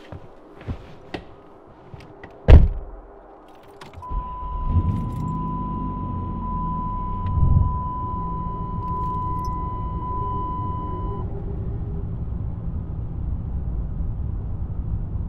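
Keys jingling and clicking, then a single loud thump. About four seconds in a car engine starts, revs up briefly twice and settles into a steady idle, while a steady electronic warning tone from the dashboard sounds for about seven seconds.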